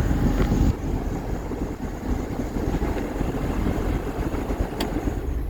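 Diesel engine running steadily with a low rumble; a faint high whine drops out less than a second in, and there is one click near the end.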